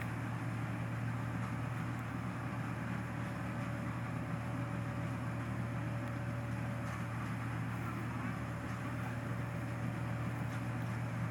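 Engine running steadily at a constant speed, a continuous low drone with a faint higher tone over it.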